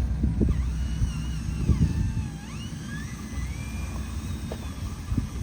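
Radio-controlled truck working: a thin whine that rises and falls in pitch with the throttle over a low rumble with irregular knocks.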